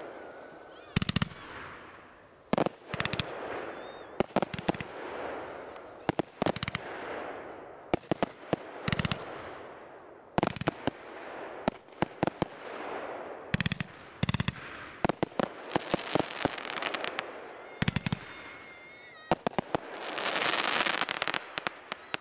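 Fireworks going off: clusters of sharp bangs and crackles every second or two, with hissing between bursts and a longer, louder hiss near the end.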